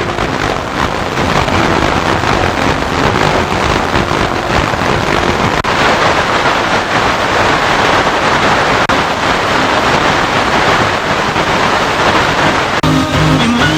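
Loud, steady FM radio static hissing over a weak station, with faint traces of the broadcast audio breaking through near the start and again near the end. The uploader labels this noise anti-DX interference.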